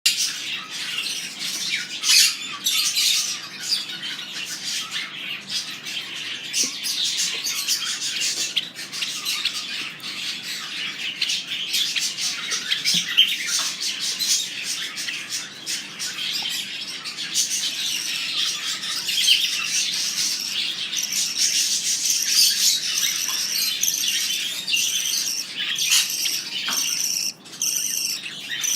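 Peach-faced lovebird chicks, about three weeks old, calling continuously in a dense stream of shrill chirps.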